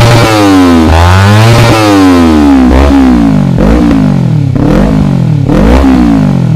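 Motorcycle fitted with a DX Generation Sphere Oval slip-on exhaust, revved repeatedly while standing: the engine note climbs and falls back several times. The sweeps are long at first, then come as quicker blips about once a second.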